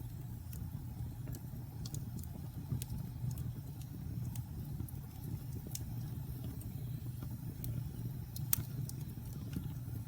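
Wood fire burning in a fireplace: a steady low rumble of flames with irregular sharp crackles and pops, one louder pop about eight and a half seconds in.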